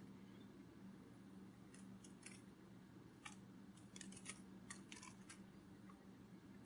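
Near silence: a faint steady hum with scattered soft ticks and clicks, several close together in the second half.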